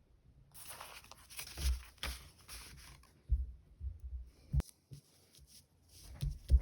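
Stickers and plastic packaging being handled close to the microphone: irregular crinkly rustling and peeling, starting about half a second in, with a few soft taps and one sharp click.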